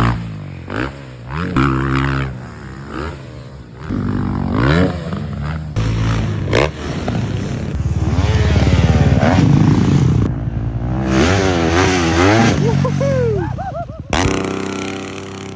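Yamaha motocross bike's engine revving hard and dropping off again and again, its pitch rising and falling as the throttle is opened and chopped over the jumps.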